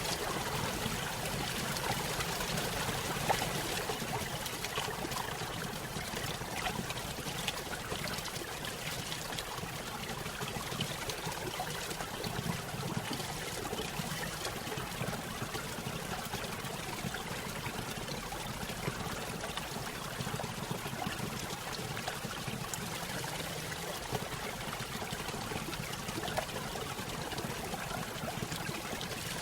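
Small stream spilling over a little waterfall: steady trickling and splashing water with small irregular splashes throughout.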